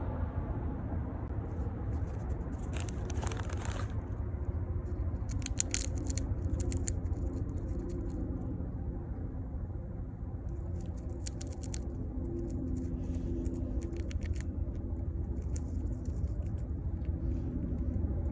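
Short bursts of crunching and crackling, typical of a squirrel biting open peanut shells, come in four clusters over a steady low rumble of distant traffic.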